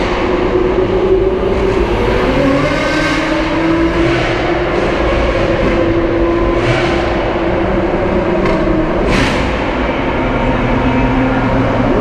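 Lamborghini Aventador SVJ Roadster's V12 engine running at a steady cruise, its pitch drifting gently up and down, over rumbling road and tyre noise, with a few brief sharp noises scattered through.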